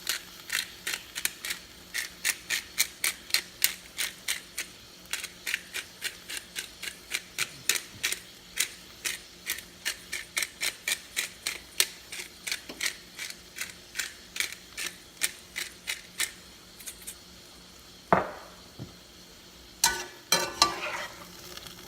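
Pepper grinder being twisted, giving a steady run of sharp clicks about three a second, then a single knock and a short clatter near the end.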